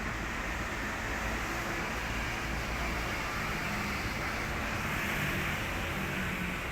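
Train passing at speed: a steady rolling rush with a faint low hum under it.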